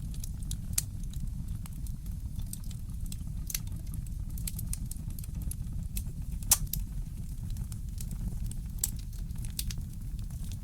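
Wood fire crackling in a fireplace: irregular sharp pops and snaps, one louder pop about six and a half seconds in, over a steady low rumble.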